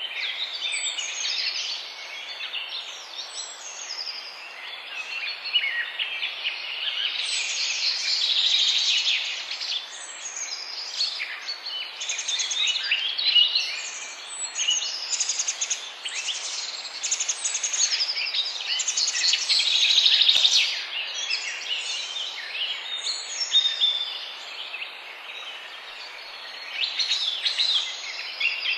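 A chorus of many songbirds chirping and trilling at once, high calls overlapping densely without pause, over a steady background hiss.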